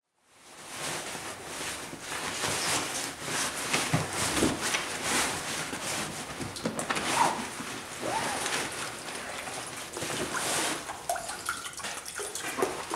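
Water poured from a plastic bottle into a small metal pot, splashing steadily into it, with a few short rising tones as it fills.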